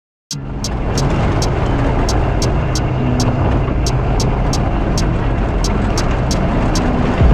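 Polaris General 1000 UTV driving, its engine and the ride noise a steady loud rumble that starts suddenly about a second in. A sharp regular ticking runs over it at about three ticks a second.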